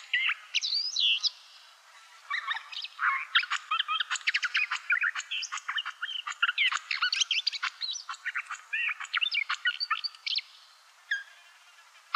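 Barred warbler singing: a short phrase, then after a short pause a long, fast warbling phrase of chattering notes that runs for about eight seconds.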